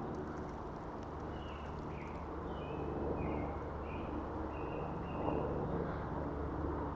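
A small bird calling, a quick run of short high chirps about a second and a half in that stops by five and a half seconds, over a steady low rumble.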